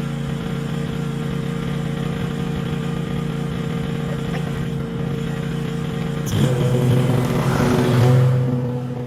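Small gasoline engine of lawn equipment running steadily. About two-thirds of the way in it gets louder and rougher, as if put under load or revved, then settles back near the end.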